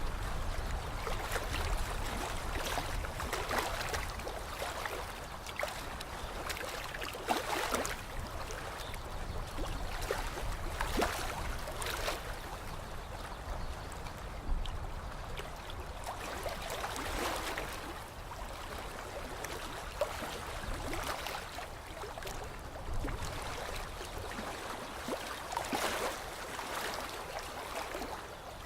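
Small waves lapping and splashing at a lake's edge, swelling irregularly every few seconds over a steady low rumble.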